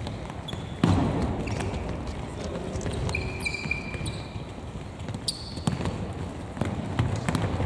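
Football match in play: several sharp thuds of the ball being kicked, the loudest about a second in, over a noisy background of play, with a few short high-pitched sounds around the middle.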